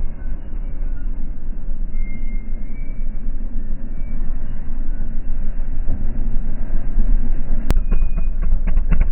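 ATV running steadily while riding, a low rumble with one sharp click about three quarters of the way through. Near the end it breaks into a quick run of rattling knocks.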